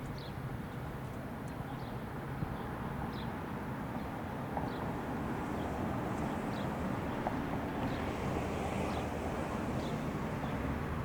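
A bird chirping over and over in short, high chirps about once a second, over a steady low rumble.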